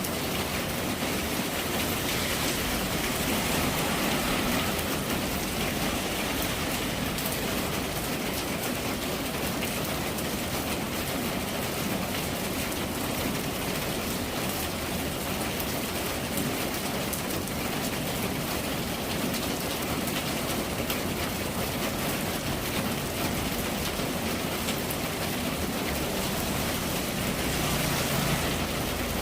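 Steady rain falling on hard surfaces, a dense even hiss dotted with the patter of individual drops. A low rumble creeps in near the end.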